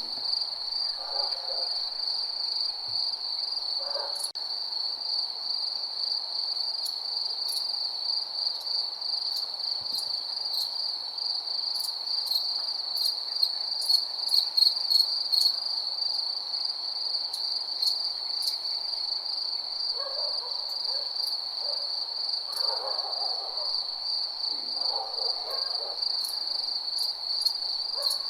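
Crickets chirring at night: a continuous, even, high trill. Short lower calls from some other night animal break in now and then, a few near the start and several in the last third.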